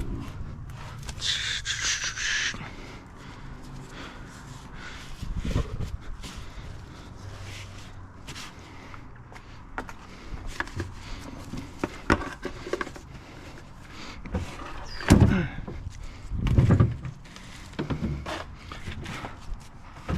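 Workshop handling noises from a motorcycle engine teardown: scattered clicks and metal knocks of parts and tools, a short hiss about a second in, and two heavier thuds near the end.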